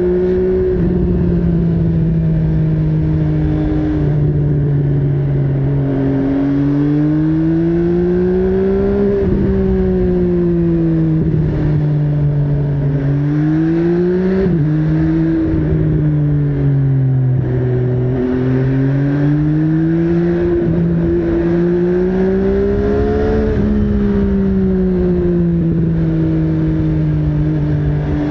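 MV Agusta Brutale 800's inline three-cylinder engine under way, its pitch climbing slowly and dropping several times as the bike accelerates, shifts gear and eases off.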